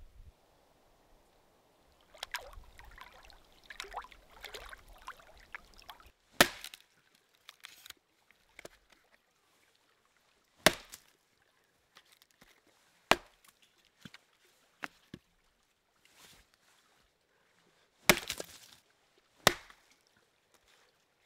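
Firewood being chopped: about five sharp, loud wooden strikes a few seconds apart, with handling and rustling of wood between them.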